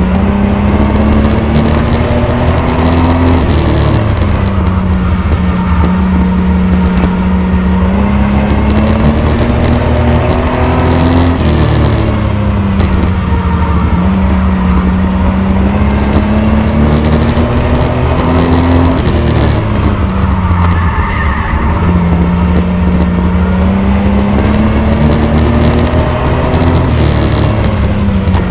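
Race truck's engine running hard around an oval: its pitch climbs steadily for several seconds and then drops as the throttle lifts, about every seven to eight seconds.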